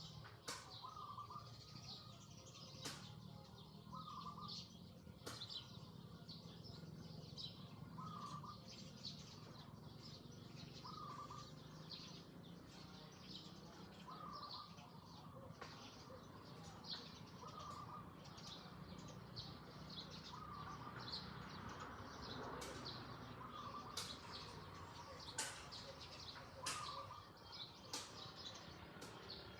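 Quiet outdoor ambience of birds calling: many short high chirps, and one short call repeated about every three seconds. A few sharp clicks are heard, with a faint steady low hum underneath.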